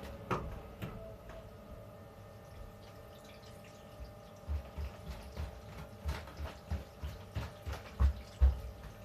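Tankless water heater thumping: a run of low, dull thumps at about two a second, unevenly spaced, starting about four seconds in and loudest near the end. A hum fades away at the start.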